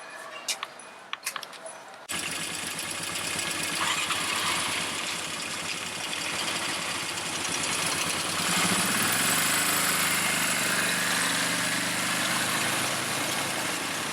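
ATV engine running, with a dense rushing noise over it. About two seconds in, a few quiet clicks give way suddenly to the loud engine sound. Past the halfway point the engine pitch climbs, then holds steady.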